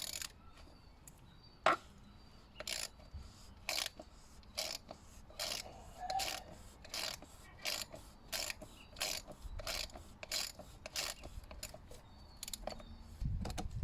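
Hand socket ratchet clicking as it is worked back and forth to undo the oil filter housing cap, with a sharp click as it first cracks loose, then a steady run of clicks at about two a second.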